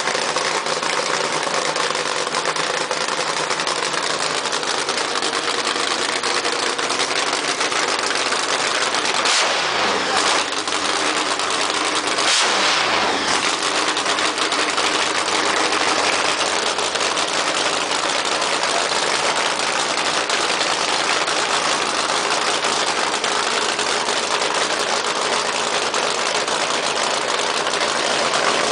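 Nitromethane-fuelled Hemi V8 in a custom Ford Thunderbird idling loudly, blipped twice about nine and twelve seconds in, each rev falling quickly back to idle.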